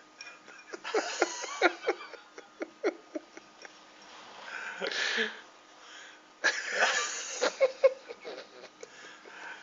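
Parrot vocalizing. It gives a run of clicks and short squeaky chirps about a second in, a harsh hissing burst near the middle, and a longer raspy screech at about six and a half seconds.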